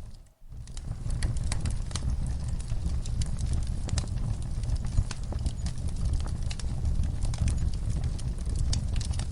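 Wood fire in a fireplace crackling, with irregular sharp pops and snaps over a steady low rumble of the flames. The sound drops out briefly about half a second in, then resumes.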